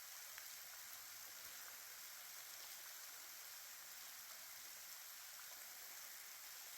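Faint, steady hiss of falling water in a wet forest hollow.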